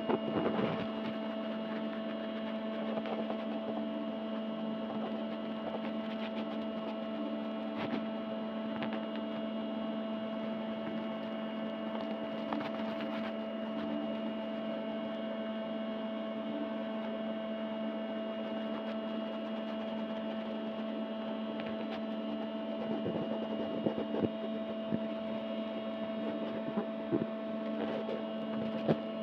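Steady electrical hum made of several fixed tones, with scattered short clicks and a few sharper taps near the end.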